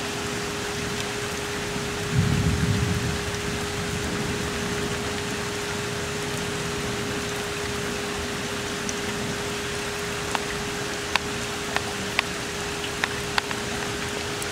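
Heavy thunderstorm rain falling steadily, with a steady hum underneath. A brief low rumble comes about two seconds in, and several sharp ticks near the end.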